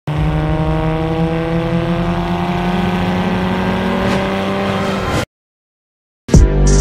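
Car engine running at speed, its pitch slowly falling, cut off suddenly about five seconds in. After a second of silence, music with sharp drum hits starts near the end.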